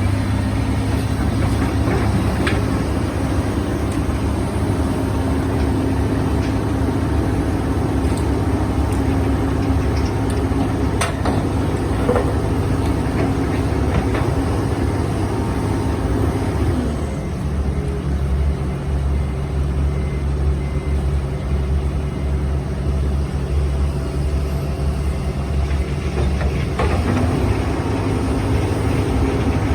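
Heavy machinery's diesel engine running steadily, its note dropping back about halfway through and rising again near the end, with a few faint knocks.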